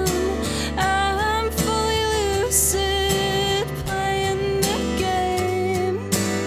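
A live song: acoustic guitar strummed under a woman singing a melody with long held, wavering notes.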